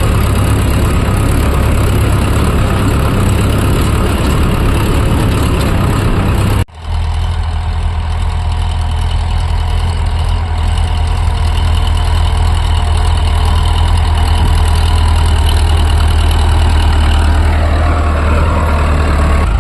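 Tractor diesel engine running steadily, a strong low hum. It breaks off for an instant about six and a half seconds in and resumes with less hiss.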